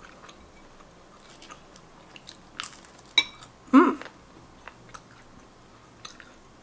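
Close-up mouth sounds of someone chewing instant noodles and vegan bacon: soft wet smacks and small clicks. A short hummed "mm" comes about four seconds in.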